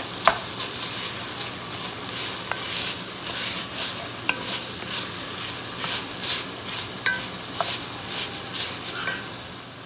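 Italian sausage sizzling as it browns in a pan, stirred with a utensil in repeated scraping strokes about twice a second, with a few sharp clicks of the utensil against the pan.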